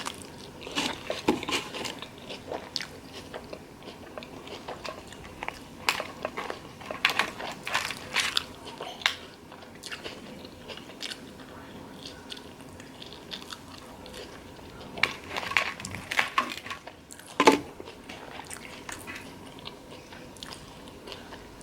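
Close-up eating sounds: a person biting and chewing fries, with clusters of small wet, crunchy clicks and a quieter lull in the middle.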